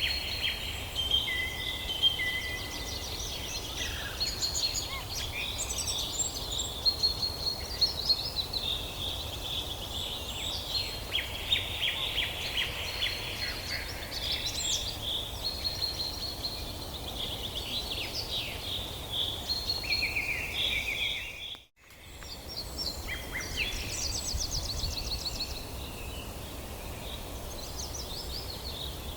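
Several songbirds singing and calling at once, with many overlapping chirps, trills and whistles, over a steady low rumble. The sound cuts out for a split second about three quarters of the way through.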